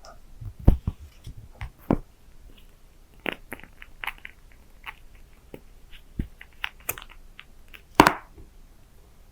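Close-miked mouth sounds: scattered wet clicks and lip smacks, the sharpest about a second in and again near the end.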